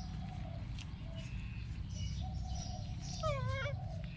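Faint, high whimpering squeaks from a young pet animal, with a louder wavering squeal a little after three seconds in.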